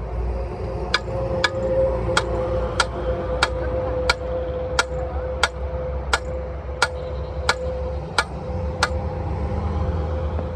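A hammer striking metal in a steady rhythm, about thirteen blows roughly two-thirds of a second apart, stopping about nine seconds in. A steady hum and low engine-like rumble run underneath.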